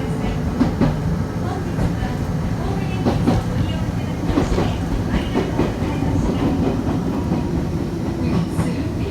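Kobe Electric Railway train running along the track: a steady rumble with wheels clacking over rail joints and occasional brief squeaks.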